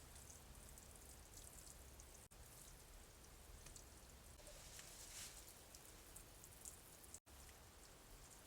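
Near silence: faint outdoor ambience with a soft hiss about four to five seconds in.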